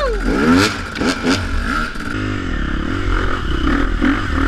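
Dirt bike engine revving up and down, with a few sharp clattering knocks in the first second and a half, then running more steadily.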